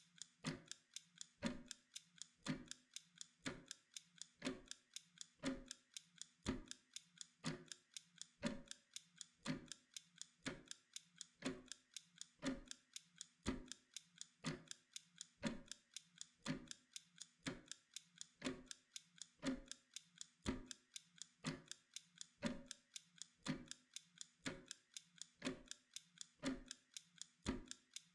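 Mechanical kitchen timer ticking steadily, about two ticks a second, alternating louder and softer like a tick-tock.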